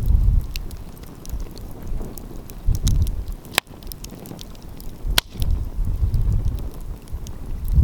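Wood fire crackling, with scattered small snaps and two sharp pops about three and a half and five seconds in. Gusts of wind buffet the microphone as low rumbles.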